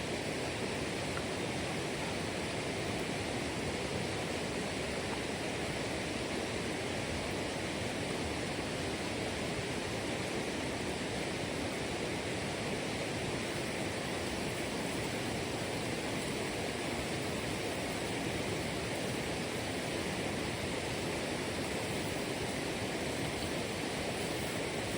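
Steady rush of flowing water, an even hiss and roar that keeps the same level throughout.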